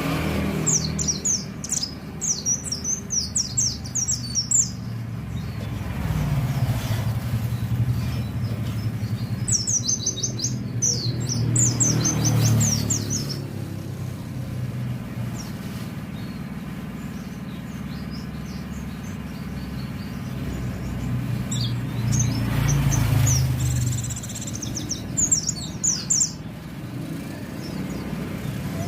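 White-eye (pleci) singing in four bursts of fast, high chirping phrases. Road traffic hums underneath, with vehicles passing several times.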